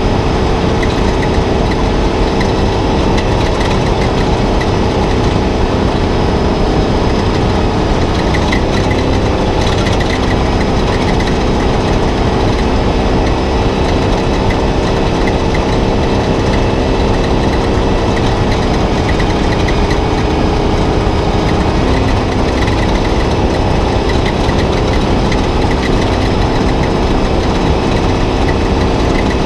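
Spec Trophy Truck's V8 engine running steadily, heard from inside the cab, with small shifts in pitch a few times.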